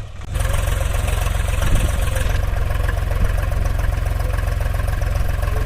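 Diesel engine of a heavy farm or construction machine running steadily with an even, rapid low chugging. It cuts in abruptly just after the start.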